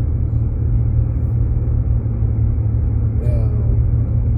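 Steady low rumble of road and tyre noise inside a Jeep Grand Cherokee's cabin while driving on snow-covered roads.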